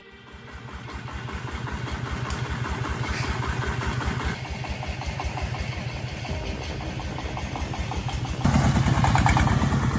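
A vehicle engine running with a low, rapid, even pulsing. It grows louder about eight and a half seconds in.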